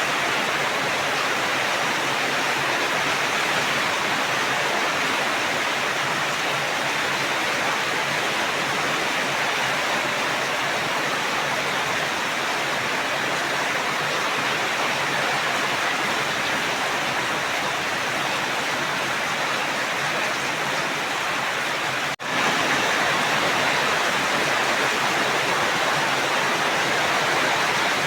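Steady rain, an even rushing hiss of falling water. It cuts out for an instant about three quarters of the way through.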